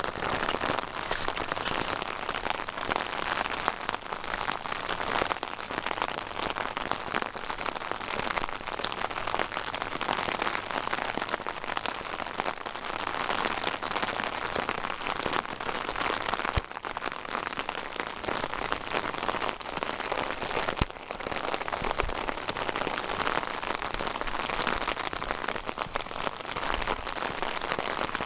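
Steady rain falling, with many close drops pattering, and two sharp clicks in the second half.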